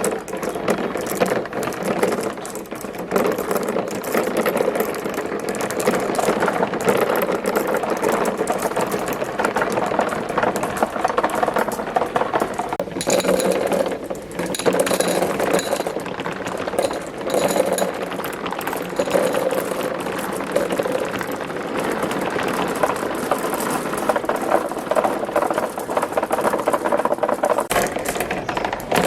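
Many marbles rolling and clattering down wooden and plastic marble-run tracks: a dense, steady rattle of small clicks, with a few bright ringing clinks around the middle.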